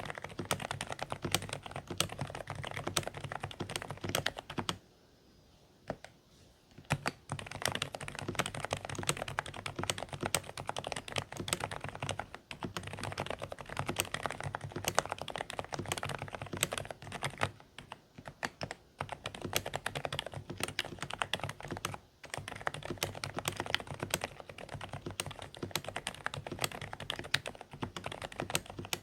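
Fast, continuous typing on a Dareu A104 Pro mechanical keyboard with silent beige switches: quiet, somewhat muffled keystrokes. Typing pauses for about two seconds near the start, then carries on steadily.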